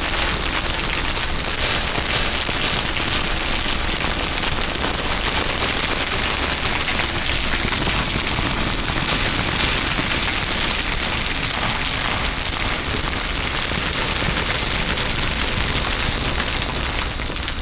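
Several layers of crinkling sounds mixed together, a dense continuous crackle with a steady low rumble underneath.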